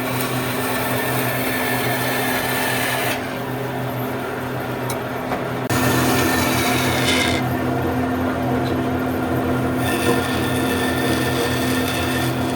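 A power tool running with a steady motor hum while it rasps and rubs against wood. The rasping drops away twice, from about three to six seconds in and again from about seven and a half to ten seconds in, then comes back.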